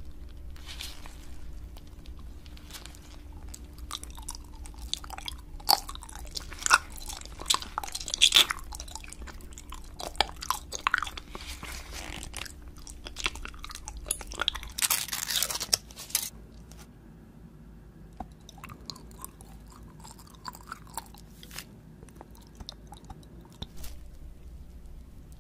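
Close-miked chewing and biting of a gummy candy: sharp, crunchy crackles and wet clicks, densest and loudest in the first two-thirds, then thinning to sparse quieter ticks.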